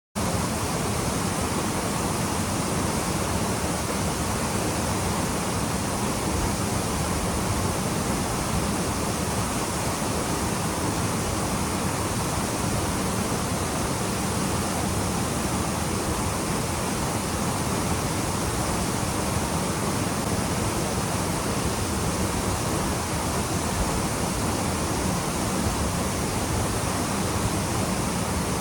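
Waterfall pouring into its plunge pool: a steady, even rush of water.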